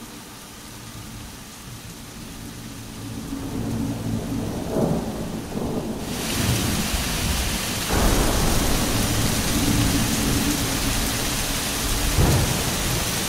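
A low humming drone with steady tones, then heavy rain starting abruptly about halfway through, with low rumbles of thunder twice.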